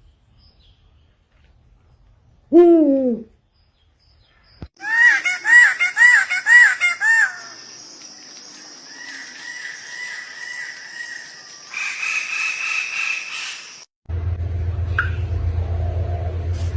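A string of separate animal and bird calls cut one after another. First comes a single falling call, then a run of five quick repeated calls, then a long, steady, high-pitched trill. Near the end there is a low steady hum.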